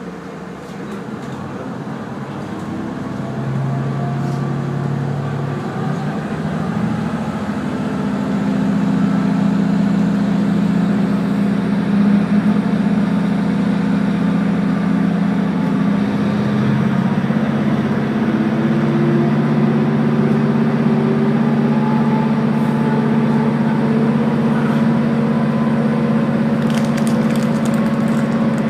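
Diesel railcar engine under power as the train pulls away and gathers speed; its hum steps up in pitch several times and grows louder, with a fainter whine rising slowly alongside.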